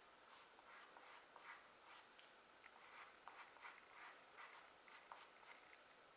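Faint scratching of a charcoal pencil on drawing paper: quick short strokes, about three or four a second, as tree branches are sketched in.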